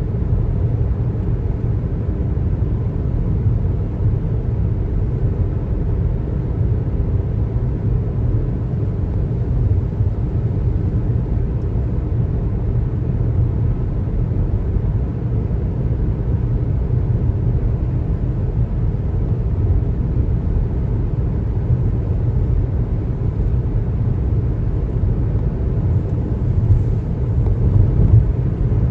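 Steady low rumble of a car's road and tyre noise while driving, unchanging throughout.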